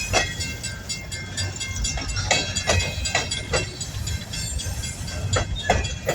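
Long coal train rolling past: a steady low rumble with irregular sharp clicks as the cars' wheels pass over the rail joints, and a thin, steady, high metallic whine from the wheels over it.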